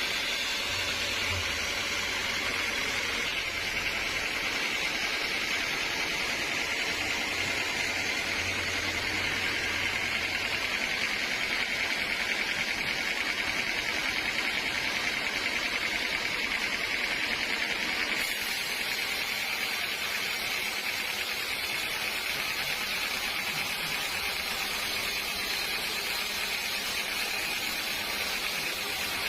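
Sawmill machinery running steadily, a continuous even noise with its strongest part in the upper-middle pitch range and no separate knocks or pauses.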